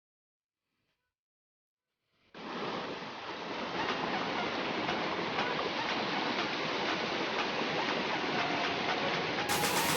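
Flowing water rushing steadily, coming in suddenly about two seconds in after a silent gap.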